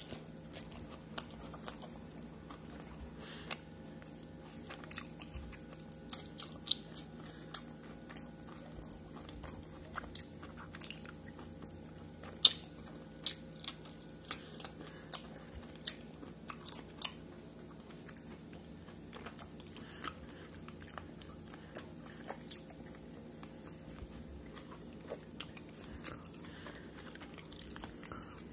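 Close-miked eating of street tacos: biting and chewing, with many short sharp wet mouth clicks coming in irregular clusters, thickest in the middle. A steady low hum runs underneath.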